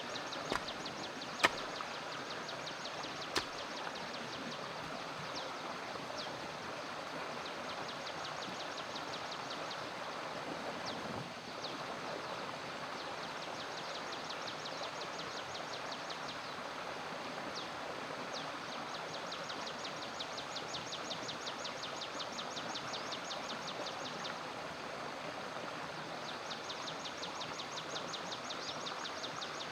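Outdoor ambience: a steady rushing noise like running water, overlaid in stretches by fast trains of high-pitched ticking chirps. A few sharp knocks come in the first few seconds.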